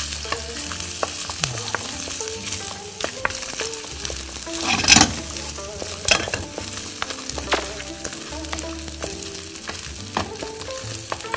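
Dried red chillies, minced ginger and sliced garlic sizzling in hot oil in a nonstick wok to scent the oil, stirred with a wooden spoon. The spoon scrapes and knocks against the pan, loudest about five seconds in.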